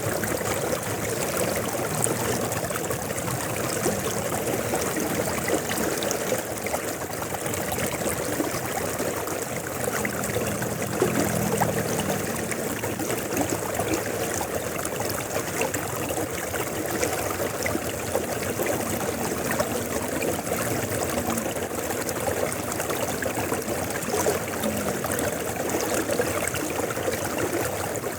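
River water flowing and rushing, a steady continuous wash of sound.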